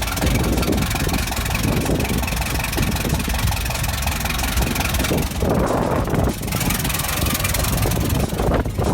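UAZ off-roader's engine idling steadily shortly after a cold start, with a brief fuller swell about five seconds in.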